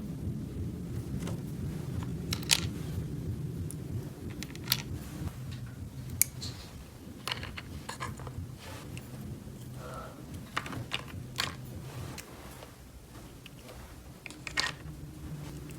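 Light clicks and taps of small plastic toy pieces being handled, scattered irregularly, over a low steady hum that fades out about three quarters of the way through.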